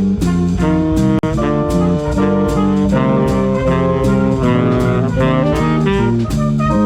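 Swing big band playing: saxophones and brass carry the chords over a drum kit keeping a steady swing beat. There is a brief dropout in the sound about a second in.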